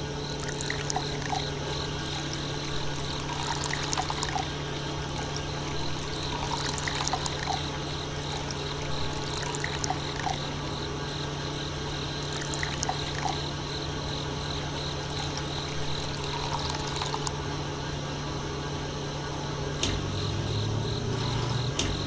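A small electric motor hums steadily while liquid pours and trickles, with scattered small clicks. The hum changes pitch about twenty seconds in.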